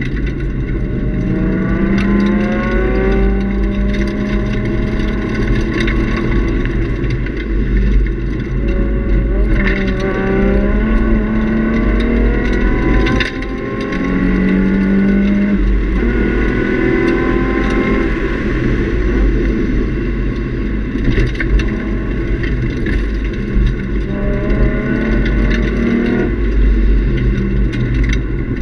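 2003 Nissan 350Z's 3.5-litre V6 with a Nismo cat-back exhaust, heard from inside the cabin, pulling hard under track driving: the engine note climbs in pitch in several repeated pulls and drops at gear changes, one about thirteen seconds in. A steady low rumble runs underneath.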